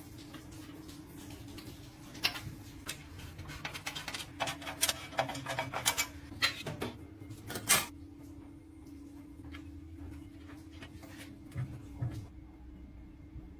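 A quick run of sharp clicks and knocks, densest from about two to eight seconds in, with two more near the end, over a steady low hum.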